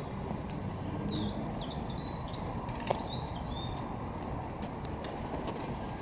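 A bird sings a short run of high, quick notes about a second in, over a steady low outdoor rumble. A single sharp click comes near the middle.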